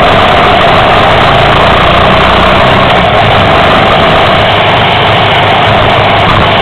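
Moto Guzzi 850 Le Mans Mk2's air-cooled 90-degree V-twin running at a steady speed while the bike is ridden along a street, heard close up from a bike-mounted microphone.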